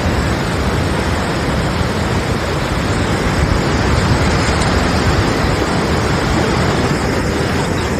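Fast-flowing river water rushing, a loud steady noise.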